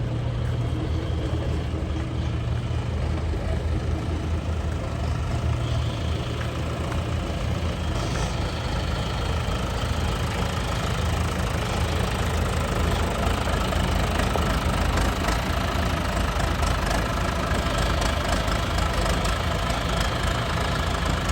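John Deere 2650 tractor's four-cylinder diesel engine running steadily, a low drone that grows a little louder and harsher partway through.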